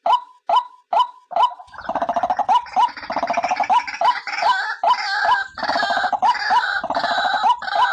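White-breasted waterhen calling: a run of short, evenly spaced notes, about two and a half a second. About two seconds in, a harsh, gargling chorus joins them and lasts until near the end, when the single notes carry on alone.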